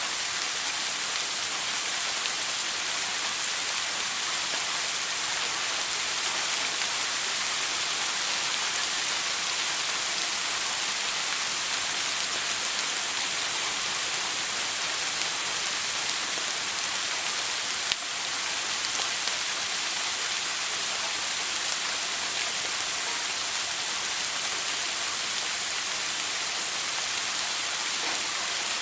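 Shower water spraying steadily in an even, hissing wash, with one brief click about eighteen seconds in.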